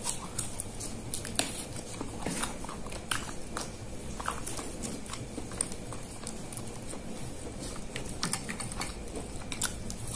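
Close-miked mouth sounds of a person eating chicken satay and lontong rice cake in peanut sauce: chewing with irregular small clicks and smacks.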